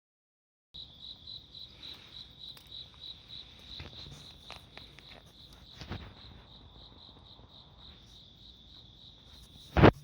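Insects, cricket-like, chirping steadily at a high pitch in a pulsing rhythm of about three to four chirps a second, over scattered small crackles and pops of a wood fire. A sharp loud crack near the end.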